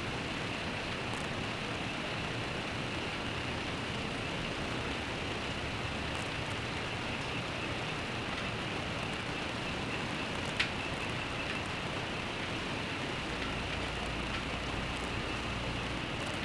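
Steady rain falling, an even hiss with no let-up, with one sharp tick about ten seconds in and a low rumble underneath in the last few seconds.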